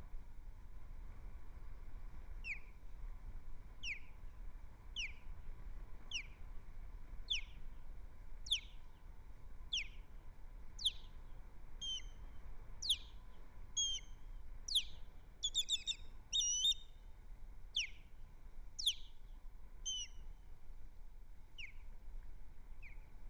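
Osprey calling: a series of sharp, high whistled chirps, each sliding steeply down in pitch, about one a second. They grow louder and come faster, some doubled, toward the middle, then thin out near the end.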